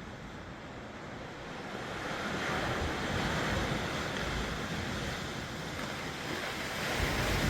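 Sea surf, waves breaking and washing in a continuous rush that swells and eases, with wind buffeting the microphone in a low rumble.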